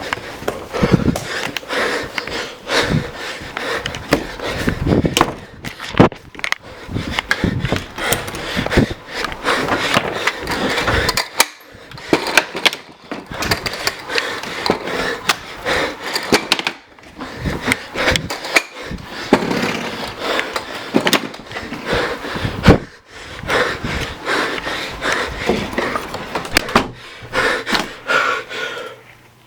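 A dense, irregular run of knocks, bumps and rustling, like a handheld camera being jostled against clothing and handled roughly, with no steady tone under it; it cuts off suddenly at the end.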